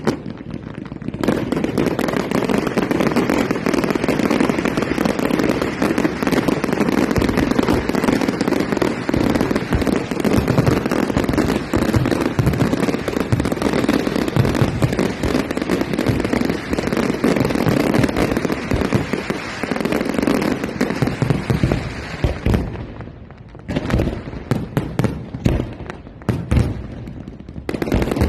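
Fireworks display: a dense, continuous barrage of bursts and crackling, thinning near the end to scattered separate bangs with short gaps between.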